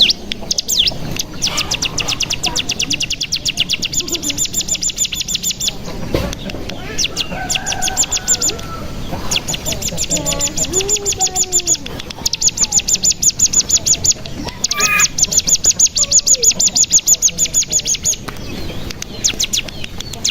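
Ciblek gunung (a mountain prinia) singing in long, fast trills of rapidly repeated high, thin notes, the 'ngebren' trill, broken by short pauses. Softer, lower sliding whistles come in between the trills around the middle.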